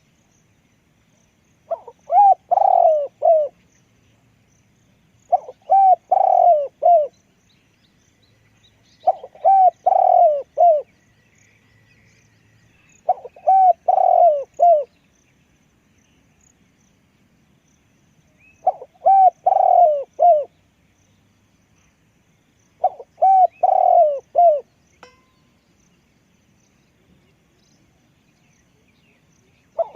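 A decoy spotted dove cooing: six phrases, each a quick run of several rolling coos lasting about two seconds, repeated roughly every four seconds, with a longer pause in the middle.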